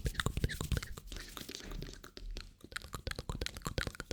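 Close-miked hands working gloves for ASMR: a quick run of crisp crinkles, rubs and small taps, thinning out for a moment in the middle before picking up again.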